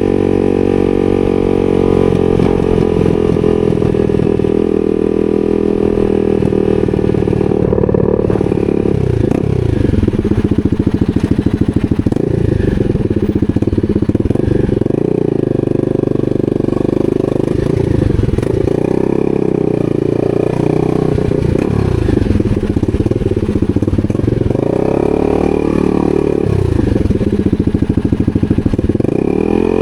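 250cc supermoto motorcycle engine under way, running steadily at first, then rising and falling in pitch again and again as it is revved up and eased off.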